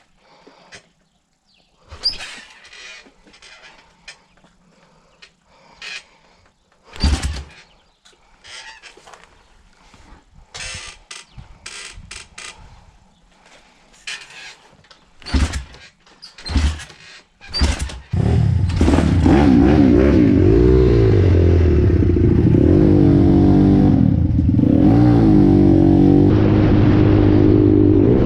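A series of scattered knocks and clatter, then a Stomp Thumpstar Detroit 170 pit bike engine fires about eighteen seconds in. It runs on loudly, its pitch rising and falling with the throttle.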